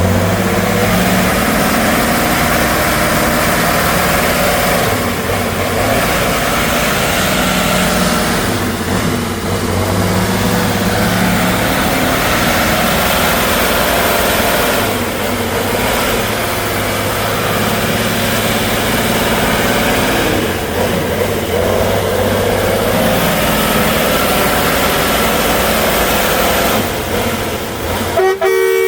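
Heavy trial truck's engine running loud. A steady two-tone horn starts sounding near the end.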